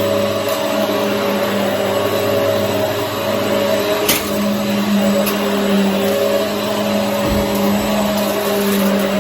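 Hoover EliteSwivel upright vacuum cleaner running steadily as it vacuums, its motor giving an even hum, with one sharp click about four seconds in.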